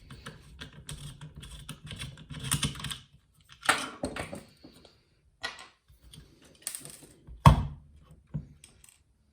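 Small metal hand tools and parts clicking and clattering against a model turbojet engine during disassembly. At first it is a quick run of light clicks over a low hum; after about three seconds come a few separate sharp clicks, the loudest about 7.5 seconds in.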